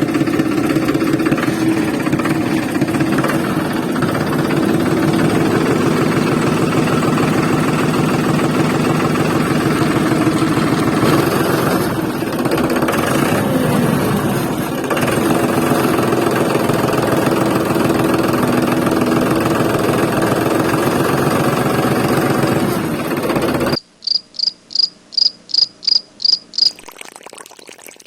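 Small DC hobby motor running with a loud, steady buzz that cuts off suddenly near the end. A quick series of about nine short, high chirps follows.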